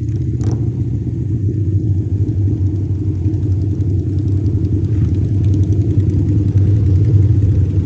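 Harley-Davidson V-twin motorcycle running at a steady pace on the road, a loud, even low rumble.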